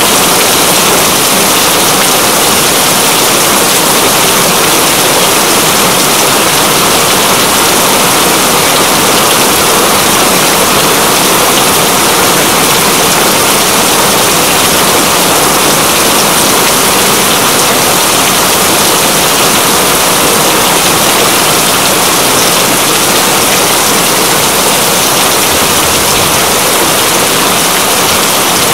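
Steady, heavy rain: a dense, even hiss of falling water that stays constant throughout.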